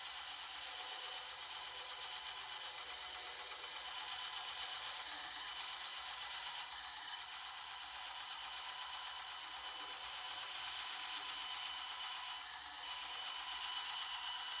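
Bandsaw running steadily: an even hiss with a high whine held the whole time.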